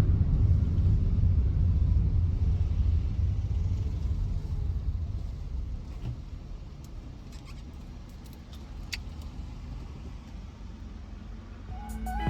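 Car running on the road, heard from inside: a low rumble of engine and road noise that dies down over the first few seconds to a quieter hum, with a few faint clicks.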